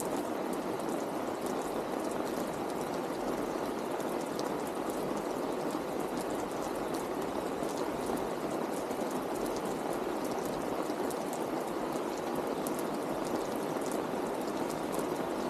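Steady rain: an even rushing of falling and running water, with many small drops ticking throughout.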